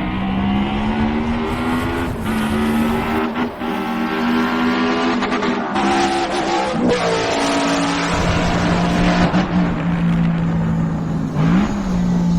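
Motorcycle engine running at a steady speed while riding, its note stepping in pitch a few times, with a quick rise and fall near the end, over rushing wind and road noise.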